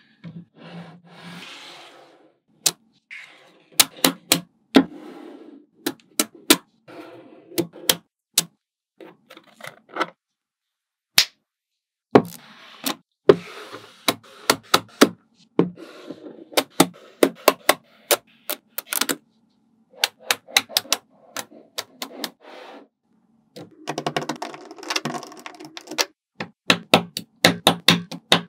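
Small magnetic balls snapping together in sharp, irregular clicks, with stretches of rattling as loose balls are handled and rolled together.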